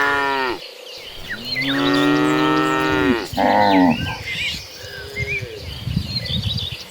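Cattle mooing: a low call ends just after the start, then a long moo from about a second in falls away at its close, and a short call follows. Small high chirps run on faintly after the calls.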